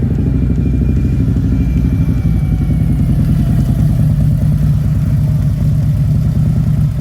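Motorcycle engine running loud and steady, holding much the same pitch.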